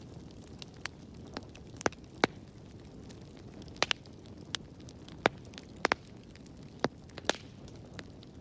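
Wood fire burning in a fireplace: a low steady rush of flames with irregular sharp crackles and pops, about a dozen in a few seconds, several of them loud.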